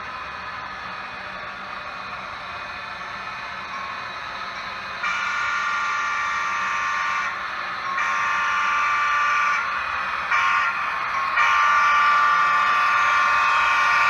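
A sound-equipped HO scale model diesel locomotive sounding its horn: after about five seconds of steady running noise, it blows two long blasts, a short one, then a long one, the grade-crossing signal.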